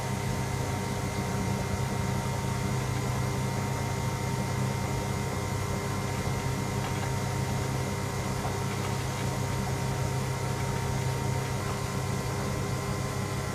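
Electra AWF683 front-loading washing machine spinning at a steady speed during an interim spin: a constant motor hum with a thin whine over it.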